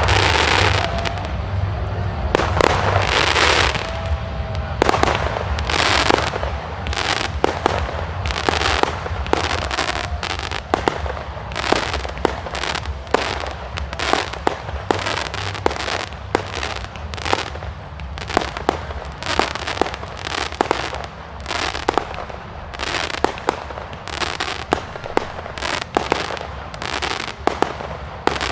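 Aerial fireworks display: a rapid, irregular series of sharp bangs as shells burst, with stretches of crackling in the first few seconds, over a steady low rumble.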